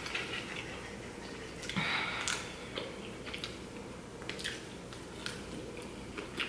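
Quiet eating sounds: a slice of pizza being bitten and chewed, with scattered small clicks and a short, louder rustly bite about two seconds in.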